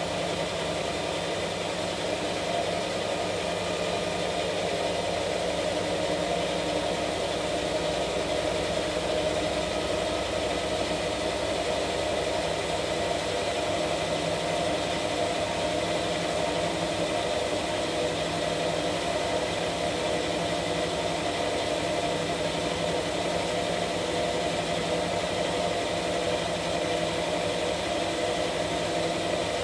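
Washing machine running with a steady, even motor hum and no pauses or changes.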